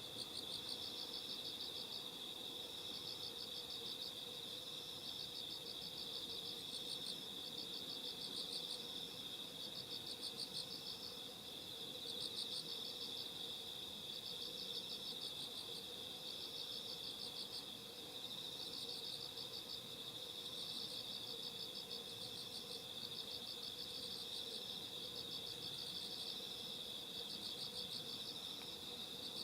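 Chorus of night insects: a steady high trill, with pulsed chirp phrases from other insects repeating about every two seconds over it.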